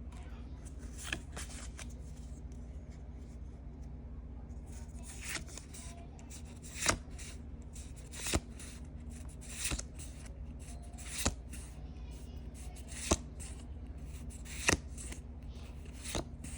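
Pokémon trading cards being flipped through one by one, a short crisp card snap about every second and a half, over a steady low hum.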